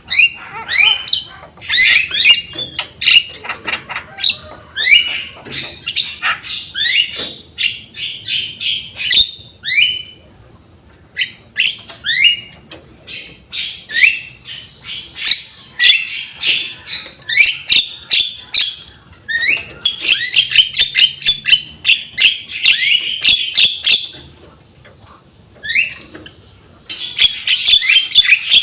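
Javan myna (jalak kebo) in full song: long rapid runs of chattering, squawky and whistled notes, many quick upward-sweeping, broken by short pauses and a longer one about two thirds of the way in.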